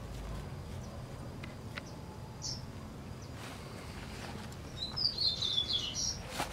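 Birds chirping: a few short high chirps, then a quick twittering run of falling notes about five seconds in, the loudest sound here.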